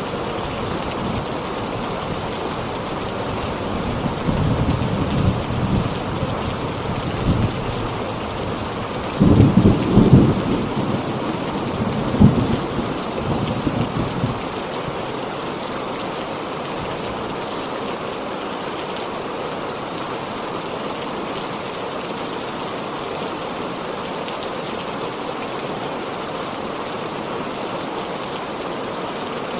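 Steady heavy rain with a roll of thunder. The thunder rumbles in low about four seconds in, swells to its loudest a few seconds later, and dies away before the halfway point, leaving the rain alone.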